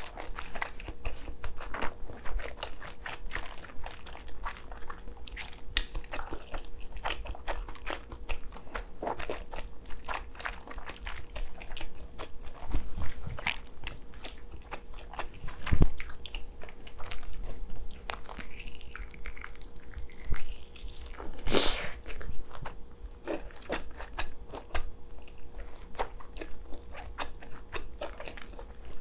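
Close-miked eating: steady biting and chewing with many small wet mouth clicks, and a few louder bites about halfway and two-thirds of the way through.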